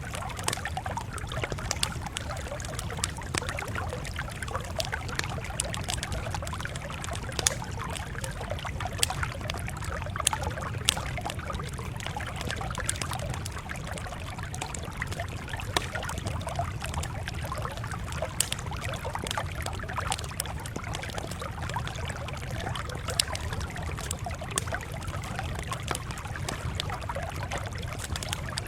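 Crackling campfire: a steady hiss with frequent irregular sharp pops, over a constant low rumble.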